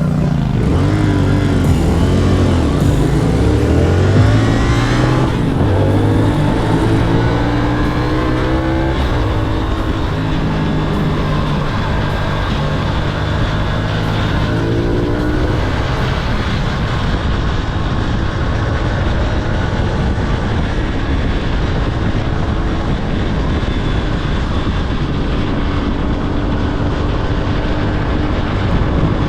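CFMOTO 450SS parallel-twin engine accelerating hard, its pitch climbing and dropping through several gear shifts in the first few seconds and again about halfway through, then running steadily at speed. Heavy wind rush runs underneath.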